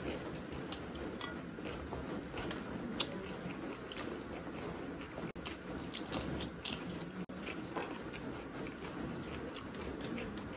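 Close-miked mouth sounds of eating: chewing of egg fried rice, with crisp crunches of raw cucumber slices being bitten about six seconds in.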